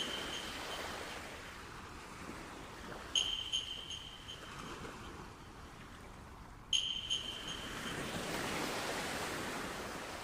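Ocean waves washing, swelling louder near the end, with two brief clusters of short, high calls about three and seven seconds in.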